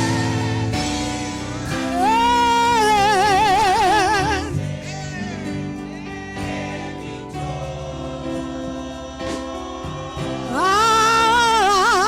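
Gospel worship song: a voice holding long notes with heavy vibrato over steady accompaniment chords, with a quieter stretch in the middle before the voice comes back in near the end.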